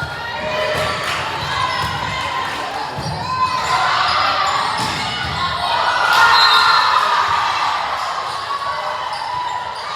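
A ball thumping on a gym floor at an uneven pace, under the chatter and shouts of players and spectators echoing in a large hall.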